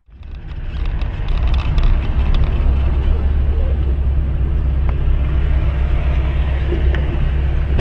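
Car driving: a steady, loud low rumble of engine and road noise, with a few faint clicks.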